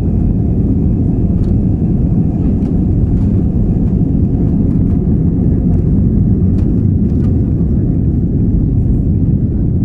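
Steady low roar of an Airbus A320's engines and airflow heard inside the passenger cabin, with a few faint rattles.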